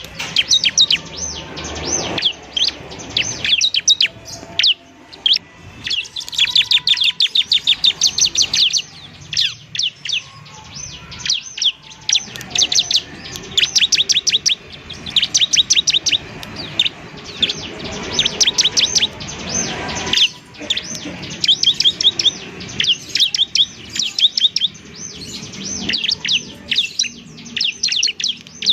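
Bar-winged prinia (ciblek) singing: rapid trilled runs of sharp, high chirps, repeated in bursts of a second or two with short breaks between.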